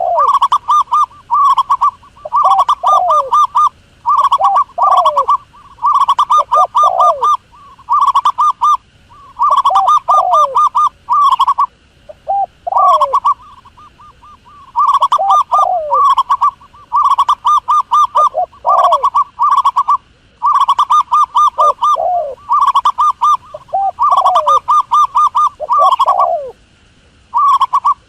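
Doves cooing over and over in quick phrases, each a rapid run of pulsed notes followed by lower, falling coos, repeating every second or two: a recorded dove call used as a hunting lure.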